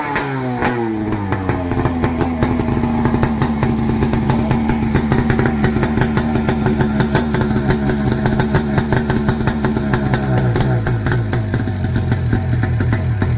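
Sea-Doo 951cc two-stroke twin-cylinder jet ski engine falling from a rev and settling into a steady idle with a rapid, even beat. The idle drops slightly lower about ten seconds in.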